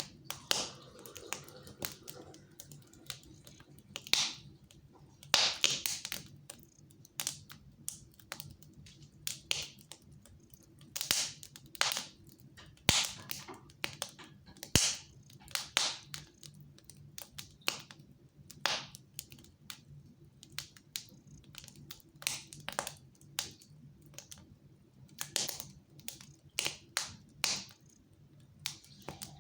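Fire burning in a fireplace, crackling with irregular sharp pops and snaps, some louder than others.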